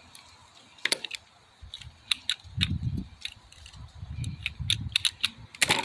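Small plastic toy figures clicking and clacking as they are picked up and handled, in irregular sharp clicks with the loudest near the end, over a low muffled rubbing of handling noise.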